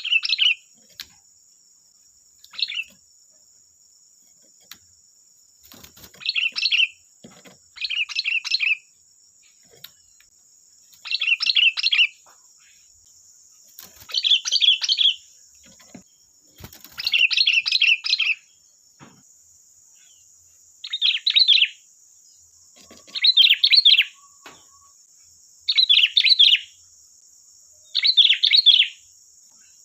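Sooty-headed bulbul singing busily: short, quick phrases about a second long, repeated every two to three seconds.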